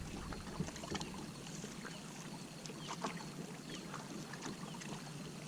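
Ambience from a kayak on the water: a steady hiss of water and air with small ticks and clicks against the hull, and a few faint short chirps.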